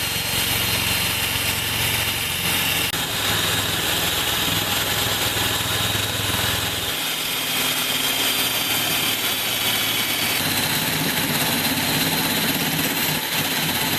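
A workshop machine running steadily with a continuous mechanical noise. Its low hum drops away about halfway through.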